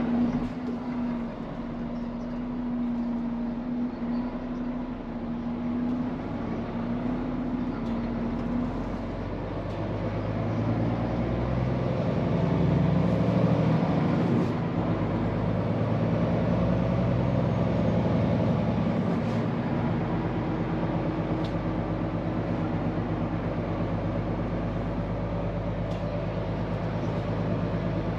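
Scania P410 truck's diesel engine running while driving, with a steady hum in the first several seconds; about ten seconds in the engine note climbs and gets louder as it takes on load, then holds steady.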